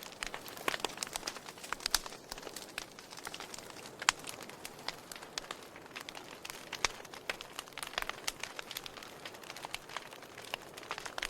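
Wood fire burning in a fireplace, crackling with frequent irregular sharp pops over a soft steady hiss. A dense run of loud pops comes in the first couple of seconds, and a single sharp pop comes about four seconds in.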